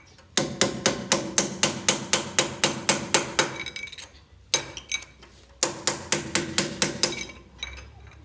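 Hammer striking metal in quick, even blows, about four a second, each blow ringing. There are two runs of blows, with a pause and a single blow between them.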